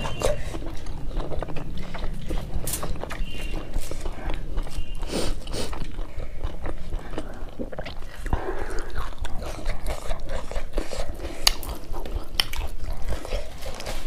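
Close-miked eating: wet chewing, biting and lip-smacking of curry and rice eaten by hand, with many short sharp mouth clicks throughout.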